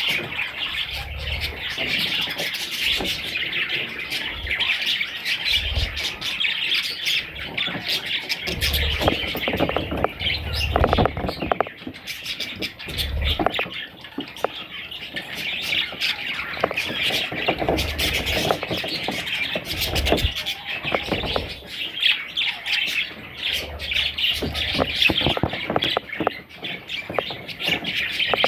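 Budgerigars chirping and squawking in dense, continuous chatter, with occasional low thumps.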